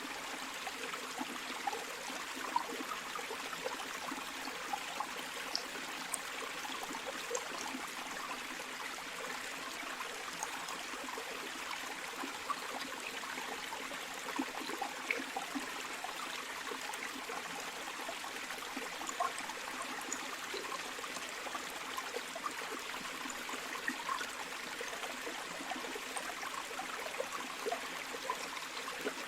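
Flowing river water, a steady rushing and babbling with many small splashes.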